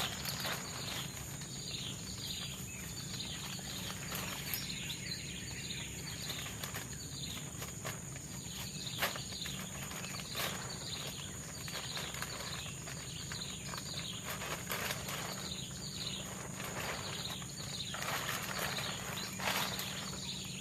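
Tropical forest ambience: a steady high insect drone under a long series of short falling chirps, about two a second, with scattered sharp clicks and knocks.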